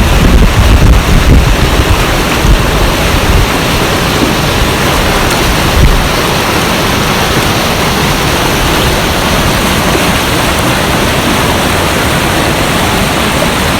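Fast-flowing stream rushing steadily, a loud even roar of water. Low wind rumble on the microphone over the first few seconds.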